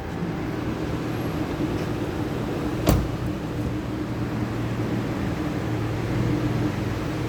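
Chrysler 300C's exhaust at a steady idle, a low even drone. There is a single sharp knock about three seconds in.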